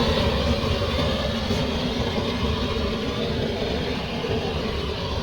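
A steady mechanical rumble with a hiss over it, like a running engine or machine, unchanging throughout.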